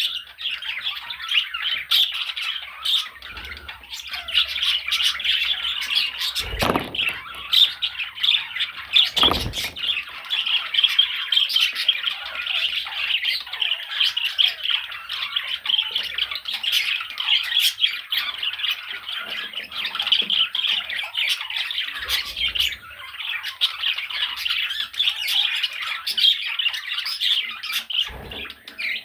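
Budgerigars chattering and warbling without pause, a dense stream of quick chirps and squawks, with two short low thumps in the first third.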